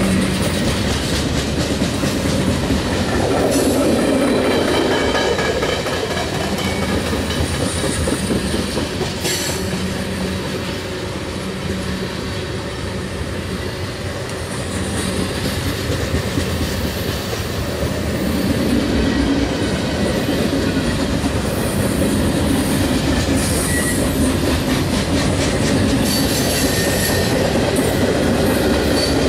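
Train cars rolling steadily past, wheels clattering over the rails, with a high wheel squeal that comes and goes.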